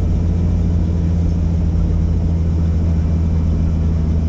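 Helicopter heard from inside the cabin in flight: a loud, steady low drone from the rotor and engine that holds even throughout.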